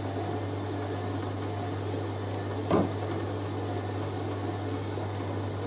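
Hoover A3060 Electronic 1100 washing machine running with a steady hum as it begins spinning a load of bedding that has been redistributed by hand to cure an imbalance. There is one short knock about halfway through.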